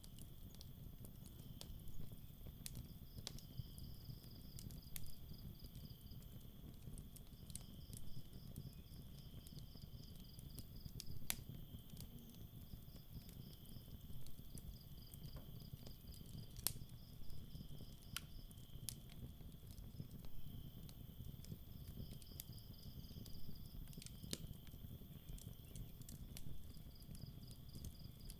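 Campfire crackling with irregular sharp pops over a low steady rumble, while crickets chirp in high pulsed trills that come and go every few seconds.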